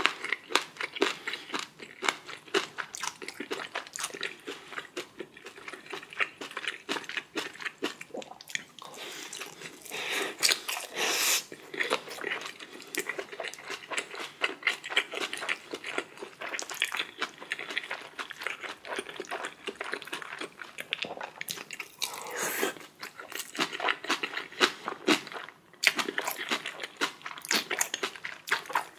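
Close-miked eating: a person chewing and biting crunchy food, with rapid wet smacking clicks throughout. There are a couple of longer, noisier stretches about ten and twenty-two seconds in.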